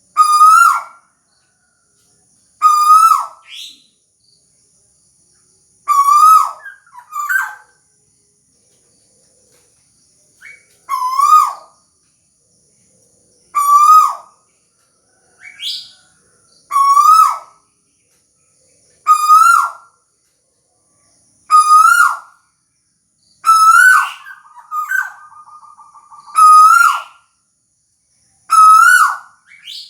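Owl (burung tuwu) calling: short hoots, each rising and then dropping in pitch, repeated about every two to three seconds, a dozen or so in all. A faint steady high whine runs behind them, and a brief buzzing trill comes near the end.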